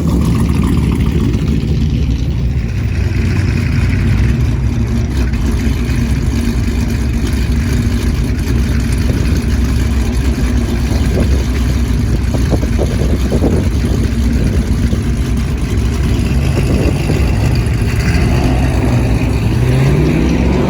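Car engines running at low revs, with one engine's pitch rising near the end as it revs up.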